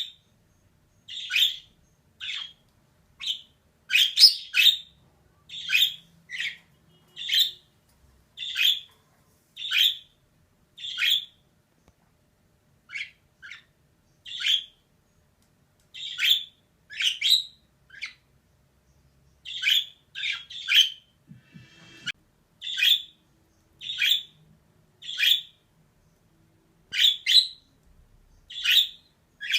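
Female budgerigar calling in short, sharp chirps, about one every second, with a few brief pauses between runs.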